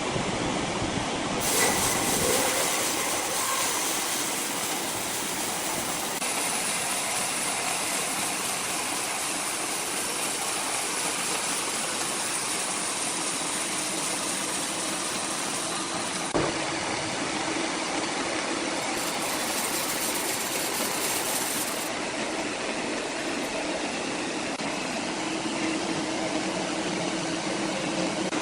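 Large sawmill machinery running with a steady mechanical noise, its character shifting abruptly a few times, with one sharp knock about halfway through.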